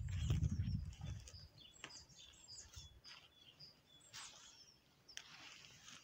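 Small birds chirping outdoors: many short, high notes scattered throughout. A low rumble fades out during the first second, and a brief hiss comes near the end.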